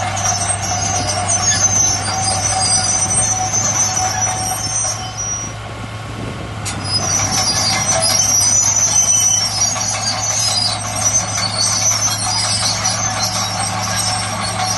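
Heavy diesel earthmoving machinery running steadily, with high-pitched metallic squealing over the engine drone; the sound dips briefly about halfway through and then comes back up.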